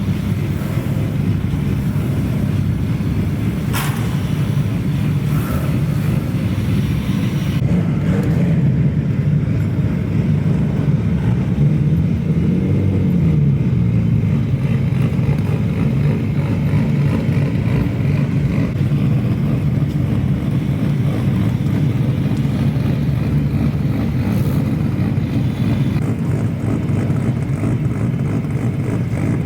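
Low, steady exhaust note of modified cars driving slowly past, with one brief rev that rises and falls about twelve seconds in.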